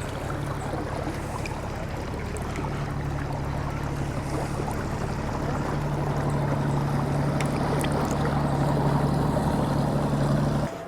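A small canal cruiser's engine running steadily, slowly growing louder as it draws near, then cutting off suddenly near the end.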